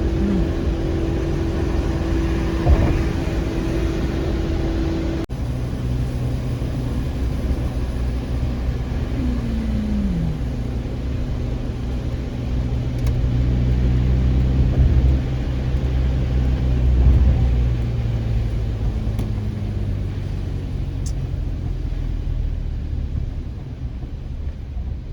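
Car driving, heard from inside the cabin: steady low engine and road rumble. A steady hum cuts off abruptly about five seconds in, and a tone falls in pitch about ten seconds in.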